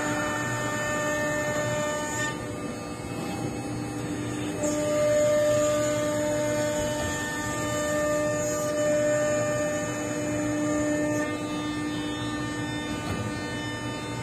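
CNC nesting router running: a steady whine from the spindle, with a high hiss that drops out about two seconds in and returns a couple of seconds later.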